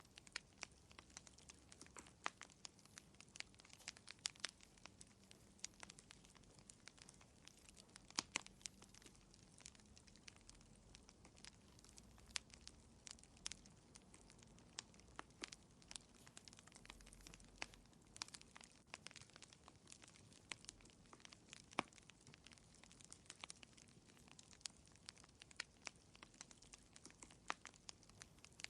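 Fire in a fireplace crackling faintly: irregular small pops and snaps, a few sharper ones, over a low steady hiss.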